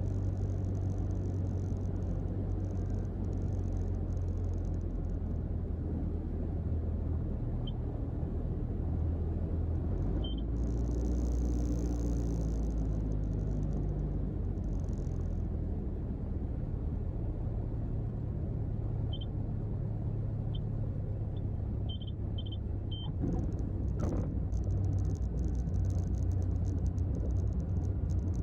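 Mooney M20J's four-cylinder Lycoming engine running at low power with a steady low drone, heard from inside the cockpit.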